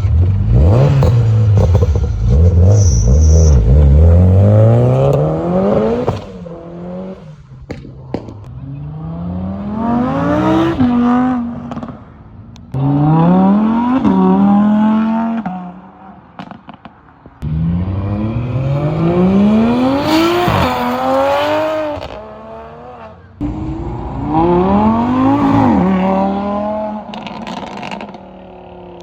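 Car engines accelerating hard in a series of short clips, each engine note climbing in pitch and dropping back at gear changes, with abrupt cuts from one car to the next.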